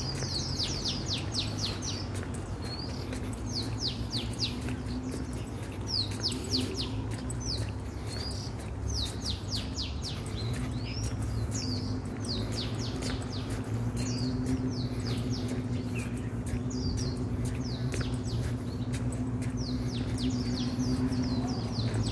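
Birds chirping in quick runs of short, falling high notes, repeated every second or two, over a steady low hum.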